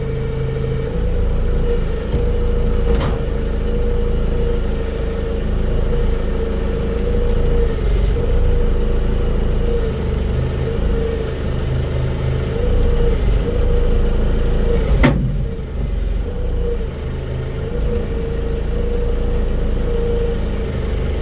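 Big diesel engine of the machine handling the slab running steadily with a wavering hum, with a few sharp metallic clunks, the loudest about two-thirds of the way in.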